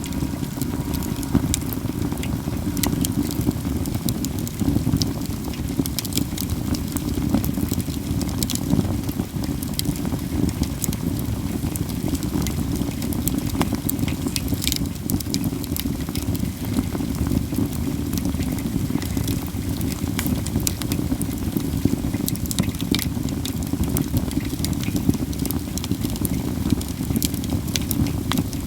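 Katsura wood burning in a campfire, crackling constantly with frequent sharp, snapping pops over a steady low rumble.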